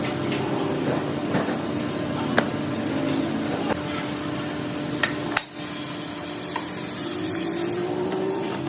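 Metal tools and parts clinking and tapping, with a few sharp hammer-like strikes; the loudest two ring briefly, about five seconds in. A steady machine hum runs underneath, and a hiss follows the loud strikes for about two seconds.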